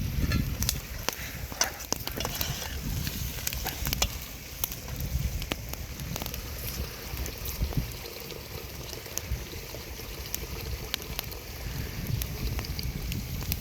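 Wood fire crackling, with many sharp irregular pops over a steady low rumble.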